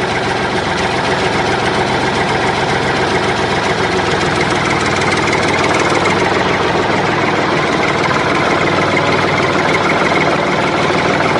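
An engine running steadily at idle, with a low, even knock.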